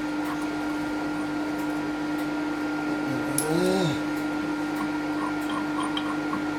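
Steady machine hum with a constant tone, from workshop machinery running. About three and a half seconds in, a short voice-like sound rises and falls in pitch.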